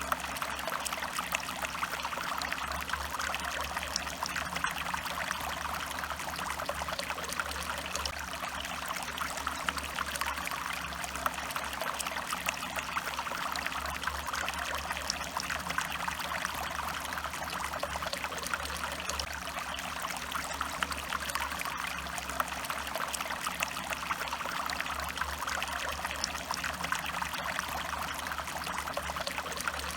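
A stream of water running and trickling over stones, a steady splashing babble that holds even throughout.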